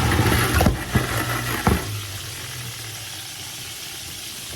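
Chicken frying in oil, sizzling. In the first two seconds a louder rattle with three sharp clicks comes from a can opener being worked on a can.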